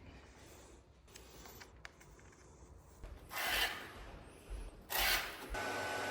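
Wooden parquet boards scraping and rubbing, two short strokes, then a steady whir starts near the end.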